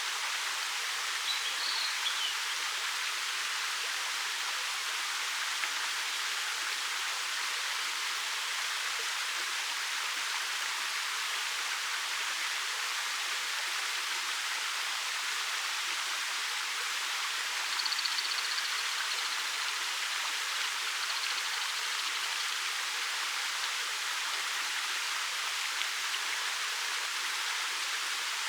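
A 13 m waterfall running in a steady, even rush of water. A few faint, high bird chirps come through about two seconds in and again around eighteen seconds in.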